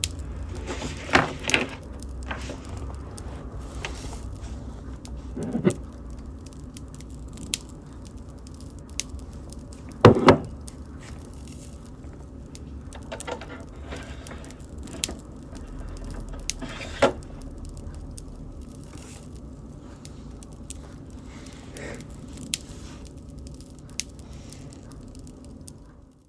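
Wood bonfire burning: a steady low rumble with scattered crackles and sharp pops, the loudest about ten seconds in.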